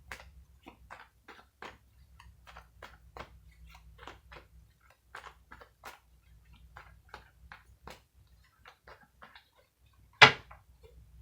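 Tarot cards being handled: a string of soft, irregular clicks and taps, a few a second, with one louder knock about ten seconds in.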